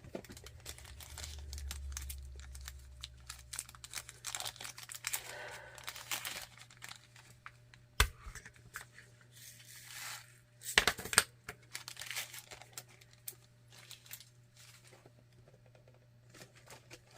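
Small plastic bags crinkling and rustling as they are handled and sorted, with scattered light clicks, one sharp tap about eight seconds in and a short cluster of louder taps about eleven seconds in.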